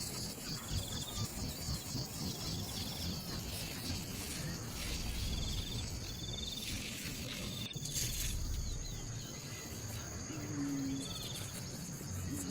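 Outdoor insect chorus: short buzzy chirps repeating every second or two over a steady high hiss, with a brief low hum near the end.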